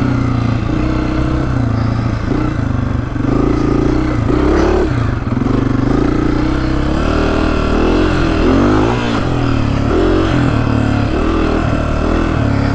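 Honda CRF250F dirt bike's single-cylinder four-stroke engine running under way, its revs dipping and rising again and again as the throttle is worked.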